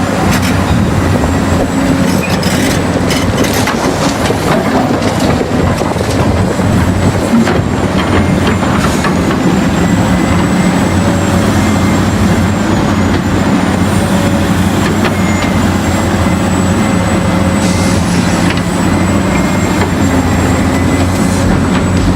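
A steady engine drone with even low hum, like a tractor running, and a thin high whine above it that wavers slightly, without a break throughout.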